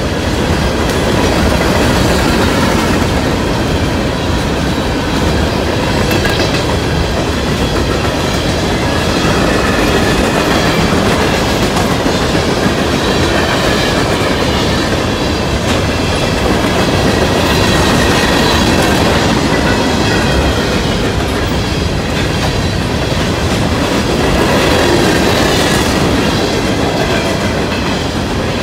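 Long CSX coal train of open-top hopper cars rolling past, a steady loud rumble with the steel wheels clattering over the rails and faint high tones at times.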